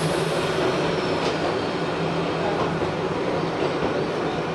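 Enoshima Electric Railway car running, heard from inside the passenger car: a steady rumble of wheels on rail with a low hum underneath.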